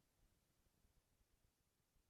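Near silence: only a faint hiss of background noise.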